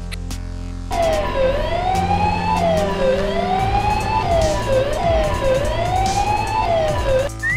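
Cartoon police car siren wailing in about four cycles, each a quick drop in pitch followed by a slower rise. It starts about a second in and stops just before the end.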